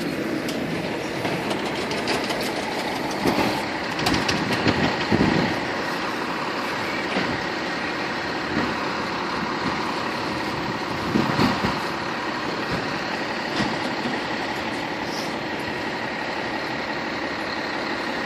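A fire engine's engine running steadily at low speed, with a few louder clunks and surges about three to five seconds in and again about eleven seconds in.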